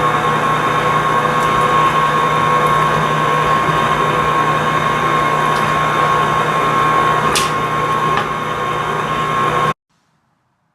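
Electric hand mixer running steadily, a constant motor whine and hum, cutting off suddenly near the end.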